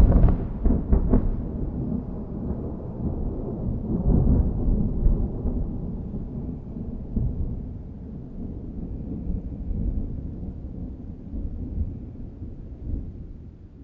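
Thunder from a close lightning strike, a deep rolling rumble right after the crack. It swells again about four seconds in, then slowly dies away.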